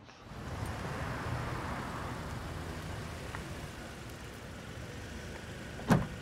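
Small car idling at the curb, a steady engine hum under street noise. A single sharp clunk near the end.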